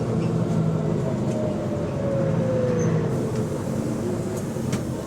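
Diesel engine of a double-decker bus running steadily, with a thin whine that falls in pitch as the bus slows. The bus has an exhaust leak.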